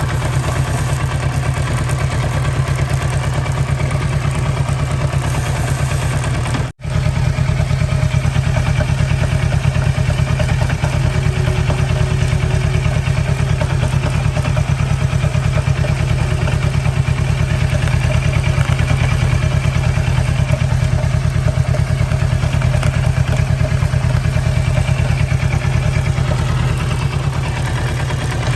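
Kawasaki Versys 650's parallel-twin engine idling steadily, cutting out for an instant about seven seconds in.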